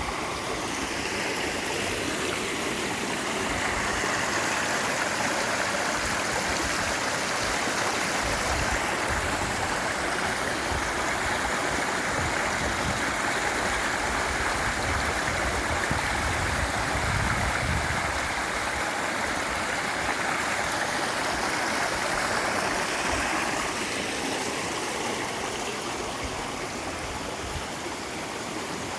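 Clear stream water flowing steadily in an even rush, a little louder through the middle stretch.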